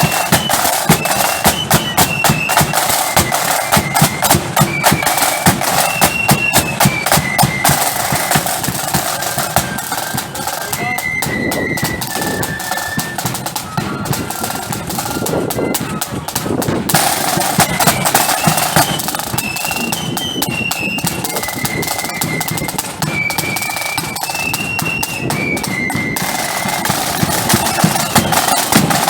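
Marching flute band playing: flutes carry a high melody over rapid snare drumming and a bass drum. The drums drop back for several seconds in the middle while the flutes play on, then come back in.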